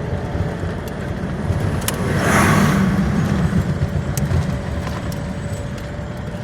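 Road and engine noise heard from inside a moving vehicle with the driver's window open, a steady low rumble with wind and tyre hiss. About two seconds in the noise swells louder for a second or so, then settles back.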